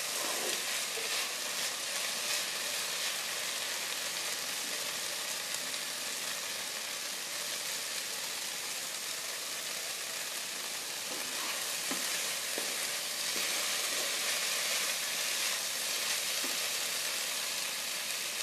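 Parboiled flat beans sizzling steadily as they fry in a little oil in a kadai, with a few light spatula scrapes. The heat has just been turned up to drive off the water the beans are releasing.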